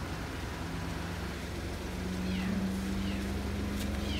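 Car engine idling with a steady low hum, its tone rising slightly and getting a little louder about two seconds in. A few short, high, falling chirps sound over it.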